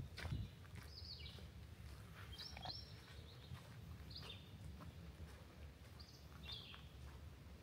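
A small bird giving short, high chirps that slur downward, about six of them spread through, faint over a low steady background. There is a footstep at the very start.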